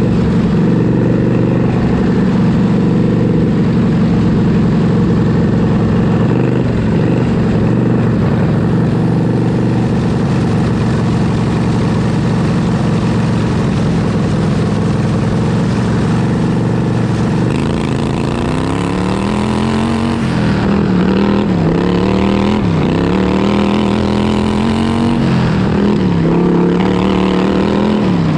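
Racing lawn tractor's vertical-shaft V-twin engine running hard at high revs, heard onboard the machine. About two-thirds of the way through, the engine note starts dipping and climbing again every two to three seconds as the throttle is eased and reopened.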